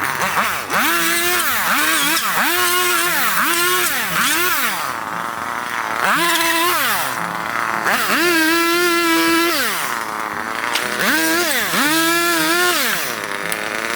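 Small power tool motor, likely a chainsaw on bamboo, run up to speed and let back down about eight times. Each run is a whine that rises, holds and falls away.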